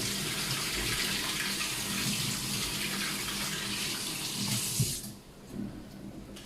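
Water running from a kitchen tap into a sink in a steady rush, shut off abruptly about five seconds in.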